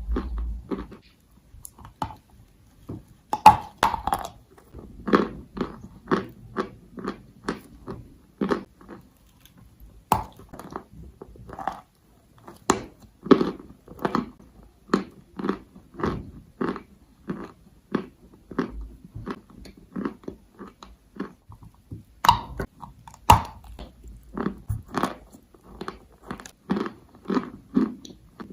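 Close-up chewing and crunching of edible chalk: a steady run of short crisp crunches, about two or three a second, with a few louder bites near the start and again late on.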